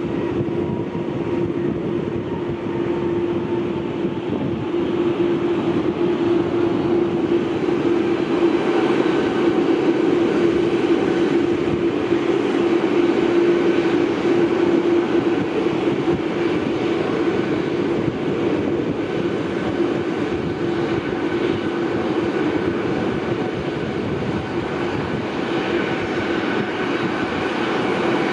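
Jet airliner engines running: a steady rush of noise with a constant low hum and a fainter high whine, swelling a little in the middle.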